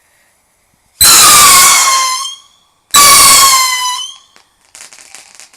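Two screamer rockets going off one after the other, each a very loud shrill whistle lasting about a second and a half with its pitch falling slightly. The first starts about a second in and the second about two seconds later.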